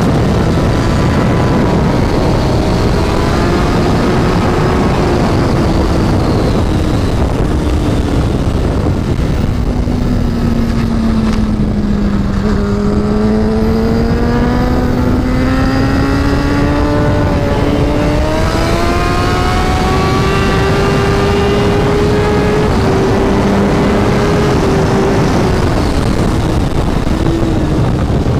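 Kawasaki ZX-10R inline-four sportbike engine heard onboard at track speed. Its pitch falls as the bike slows for a corner, bottoms out about halfway through, then climbs steadily as it drives out under acceleration, with a few shifts near the end. A heavy wind rush runs underneath.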